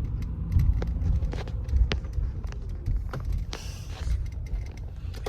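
Steady low road rumble heard inside a moving car, with scattered small clicks and a brief hiss about three and a half seconds in.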